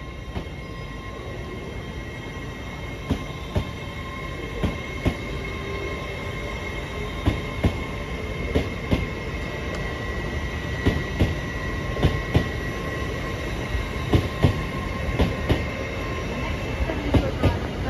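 Train rolling slowly along the platform, its wheels clicking in pairs over a rail joint, a pair every second or two and coming a little faster towards the end, over a low rumble and a steady high wheel squeal.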